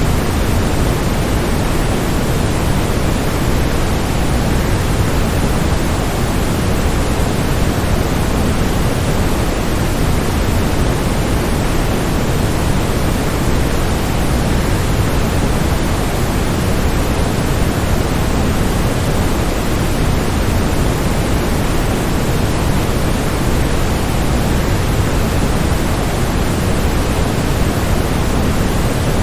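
Waterfall: a steady, unbroken rush of falling water, deep and even, with no pauses or changes.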